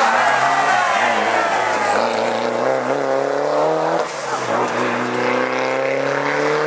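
Rally car engine revving hard under acceleration, its pitch climbing through the gears with a brief lift about four seconds in before it climbs again.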